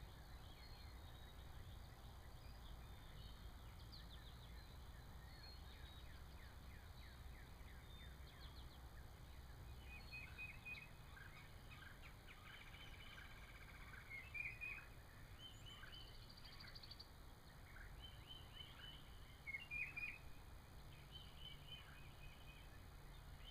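Faint wild birds chirping and calling in short clusters, the loudest bursts about two thirds of the way through and again near the end, over a steady low rumble.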